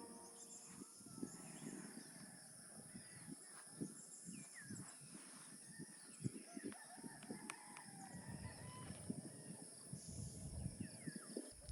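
Faint bird calls, short scattered chirps over quiet outdoor ambience.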